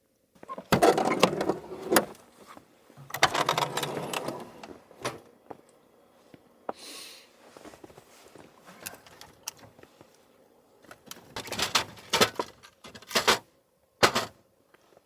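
Irregular crunches, cracks and knocks in several loud clusters, with sharp clicks between them: firewood being handled and broken to build a campfire.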